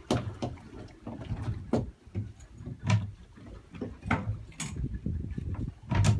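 Irregular knocks and bangs aboard a small fishing boat, over an uneven low rumble.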